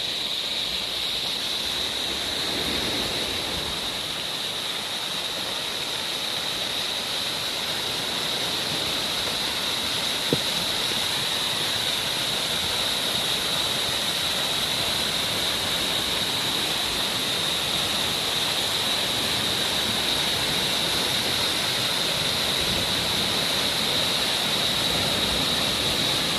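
Waterfall pouring steadily, an even rushing of water, with a single faint tick about ten seconds in.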